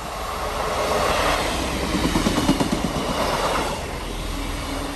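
Two coupled Class 158 diesel multiple units passing through at speed without stopping: a rush of wheel and engine noise that builds. Rapid clickety-clack of wheels over the rail joints is loudest about halfway through, then eases as the train goes by.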